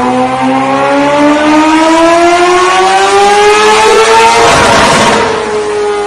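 Engine accelerating, its pitch climbing slowly and steadily for about five seconds, with a brief rush of noise near the end.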